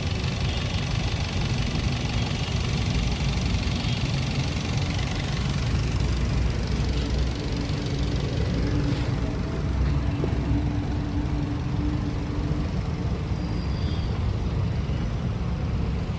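A car engine running steadily, with a constant low rumble.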